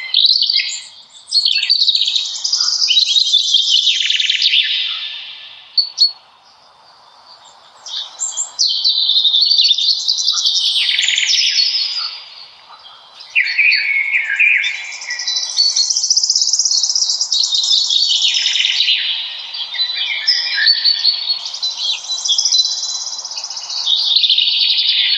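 Songbirds singing in long, rapid warbling phrases several seconds each, with short pauses about six and thirteen seconds in.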